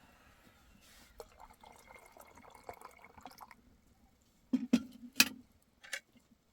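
Faint rustling, then four sharp clicks or knocks of hard objects in the second half, the first two close together.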